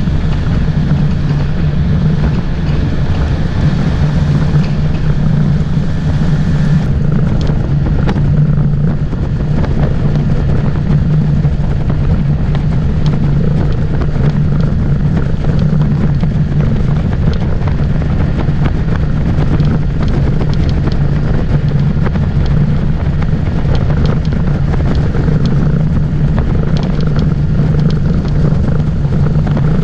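Motorboat engine running steadily under way, with wind noise on the microphone; the hiss eases about seven seconds in.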